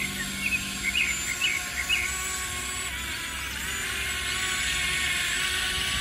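A quick series of short bird chirps in the first two seconds, over a steady outdoor hum with a faint whine.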